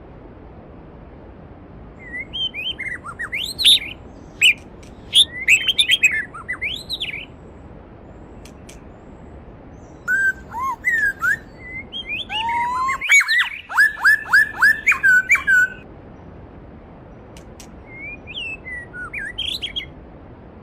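Songbirds singing in three bouts of chirping, gliding notes over the steady rush of a mountain stream; the loudest bout, in the middle, ends in a fast run of repeated downward-sweeping notes.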